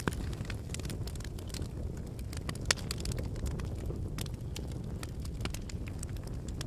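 Wood campfire burning: a steady low rumble of flames with irregular crackles and pops from the burning logs, one sharper pop a little before the middle.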